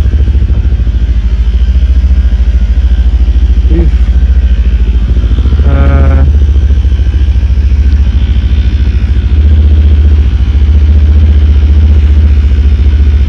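Cyclone RX401 motorcycle engine running under way, a steady low pulsing drone. A brief pitched sound cuts in about six seconds in.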